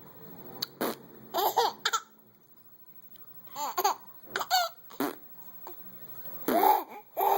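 A small child laughing in short, high-pitched bursts of giggles, broken by a near-silent pause of about a second.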